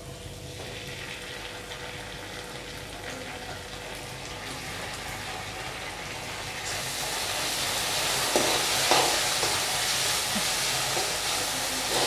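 Chopped onion, green chillies and capsicum sizzling in hot oil in a steel kadhai over a high flame, with a steel spoon clinking and scraping against the pan as tomato ketchup is stirred in. The sizzle grows louder about two-thirds of the way through, with a few sharp spoon clinks near the end.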